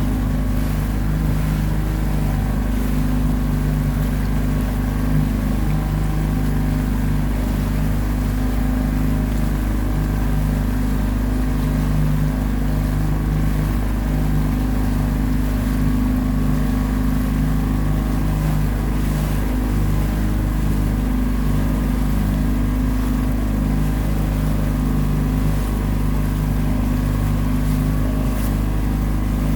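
Boat engine running steadily at a constant speed while under way, with a steady low drone throughout.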